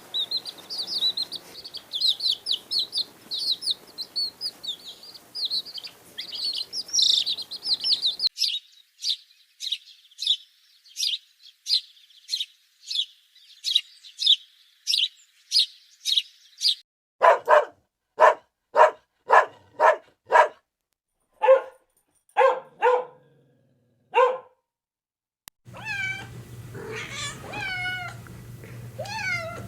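A run of different animal calls. First comes rapid high chirping, then single high chirps about two a second, then a series of short, lower calls. Near the end a cat meows several times over a low hum.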